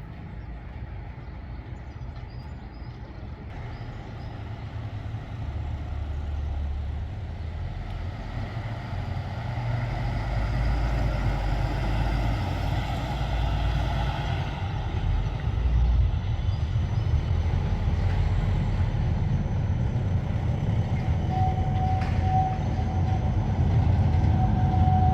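Street traffic of trams and buses: a low rumble that grows steadily louder, with a steady high whine setting in near the end.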